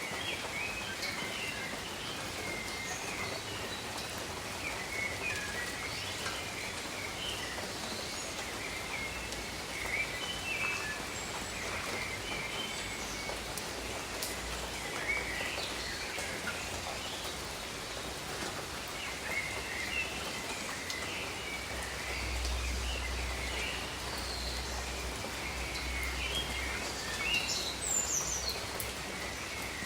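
Steady rain falling over tropical jungle, with many small birds chirping throughout. A faint low rumble comes in about two-thirds of the way through.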